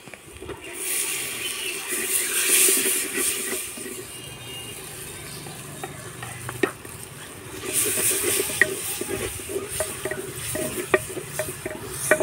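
Browned onions sizzling in hot oil in a clay pot while a wooden spoon stirs them. The sizzle surges twice, about a second in and again near eight seconds. In the second half there are several sharp knocks of the spoon against the pot.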